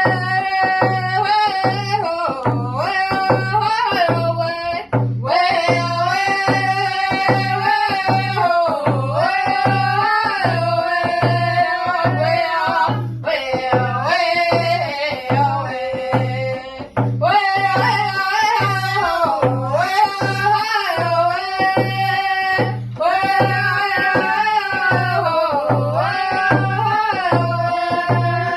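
Indigenous song: a high singing voice in long melodic phrases over a steady, even drumbeat, with short breaks between phrases.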